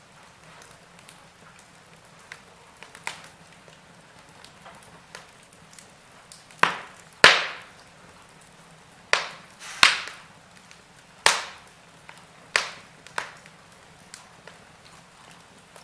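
Wood fire crackling: irregular sharp pops and snaps of burning logs over a soft background hiss, with a run of louder pops through the middle stretch.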